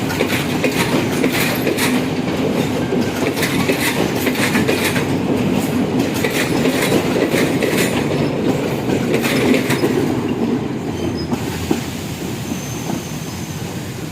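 Train hauled by a Class M5B diesel locomotive running along the track, wheels clicking repeatedly over rail joints over a steady rumble; the sound eases and gets quieter near the end.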